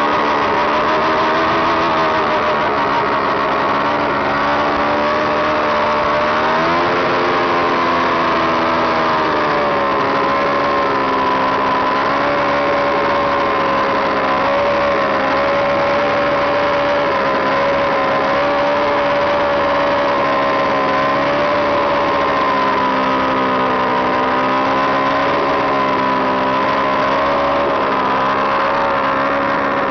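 Motorcycle engine held at sustained revs during a burnout. Its pitch wavers slowly up and down, with a dip about seven seconds in and a drop near the end.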